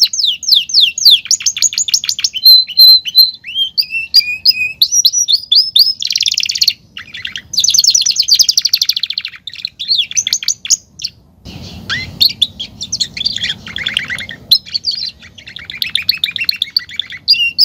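Domestic canary singing a long, near-continuous song of fast trills and rolls mixed with sweeping whistled notes and short repeated phrases, pausing only briefly.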